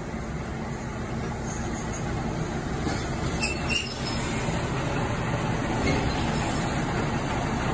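Hojo Railway's Mirai diesel railcar pulling in alongside the platform: engine and wheels on the rails running and slowly growing louder, with a brief high squeal about three and a half seconds in.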